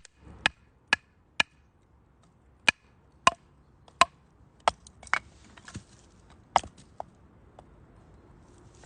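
Burning firewood in a UNIFLAME Nature Stove Large giving sharp, irregular pops and cracks, about a dozen of them, over a faint low hiss.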